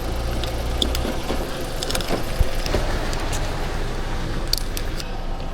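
A vehicle engine running steadily at idle, with scattered small clicks and clinks on top.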